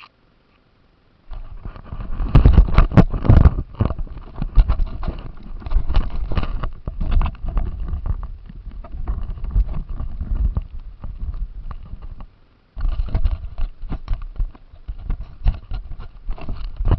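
Jolting rattles and knocks as a remote-control car drives over rough ground, heard close up from its on-board camera, starting about a second in and breaking off briefly near the end.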